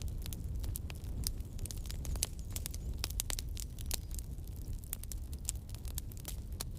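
Campfire burning, with frequent irregular sharp crackles and pops from the burning wood over a low steady rumble of the flames.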